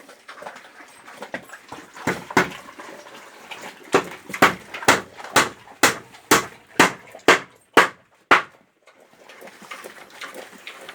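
Hammer driving a nail: two blows, then a steady run of about ten sharp strikes, roughly two a second, that stops abruptly.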